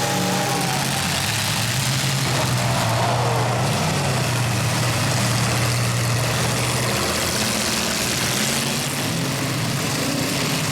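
Demolition derby cars' engines running over a steady wash of noise, with a pitch gliding up and down now and then as an engine revs.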